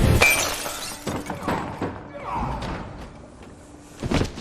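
A loud crash that fades, followed by scattered sharp impacts and clatters, with a last pair of hits near the end.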